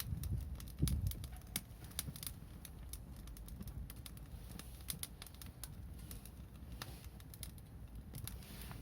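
Wood bonfire crackling: irregular sharp snaps and pops over a low rumble.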